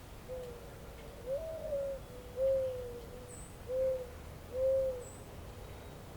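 A bird's low cooing or hooting call: five clear notes, the second pitched higher and held longer than the rest. Two faint, high chirps from a small bird come through near the middle and near the end.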